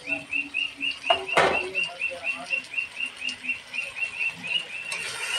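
A small bird chirping in a steady rapid series, about five short high chirps a second. A single sharp metal clank, the loudest sound, comes about one and a half seconds in, amid soft stirring of a metal spoon in an aluminium pan.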